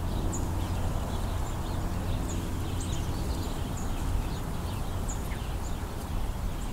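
Small birds giving short, high call notes every second or two over a steady low rumble.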